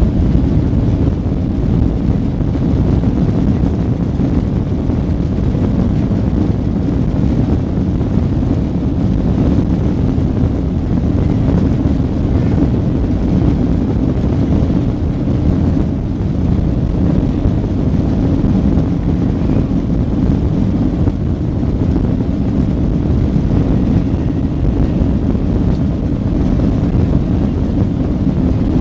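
Airliner engines running at takeoff power, a steady low rumble heard from inside the passenger cabin.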